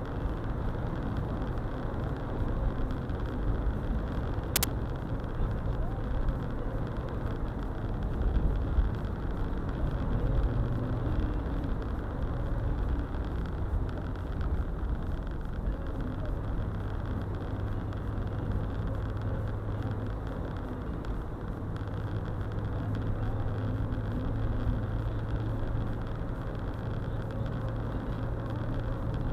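A car being driven: steady low rumble of engine and tyres on the road, with one short click about four and a half seconds in.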